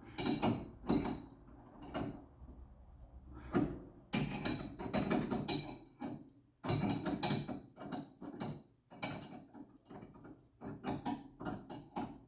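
Hand tools clanking and knocking on metal, a string of irregular sharp metallic knocks with short ringing, in clusters with brief pauses, as a steering ball joint is worked free.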